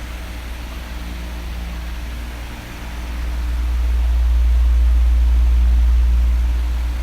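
Electric oscillating fan running with a steady airy hiss. About three seconds in, its airflow swings onto the microphone and brings a low rumble that swells, then fades again near the end.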